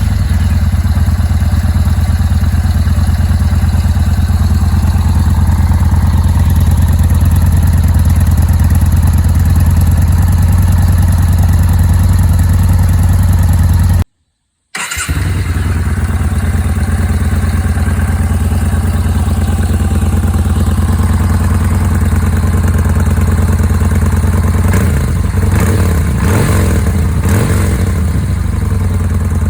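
Yamaha Bolt's air-cooled V-twin idling steadily through its exhaust, in two separate recordings: the sound cuts off about 14 seconds in and starts again under a second later.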